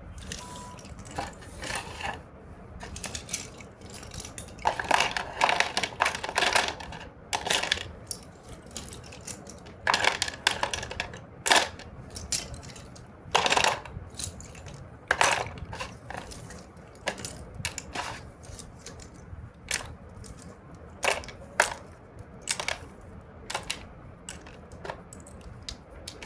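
Slate pencils clicking and clattering against each other as they are put into a box: an irregular string of sharp clicks, some in quick clusters.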